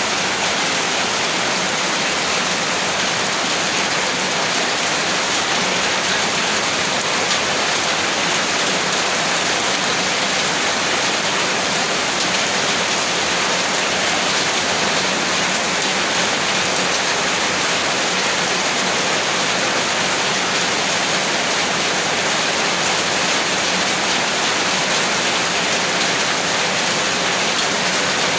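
Heavy rain pouring steadily, a dense even hiss of falling water with no thunder or breaks.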